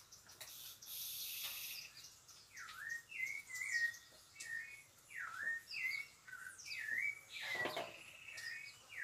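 A bird singing a repeated whistled phrase that dips down and swings back up, every two to three seconds, with short higher notes in between. A brief hiss comes about a second in.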